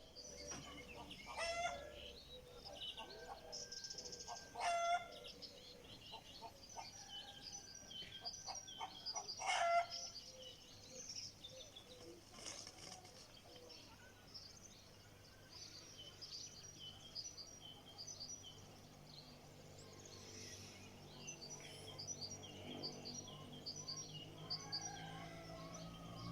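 Chickens calling, with three louder calls in the first ten seconds, over the steady chirping of small birds.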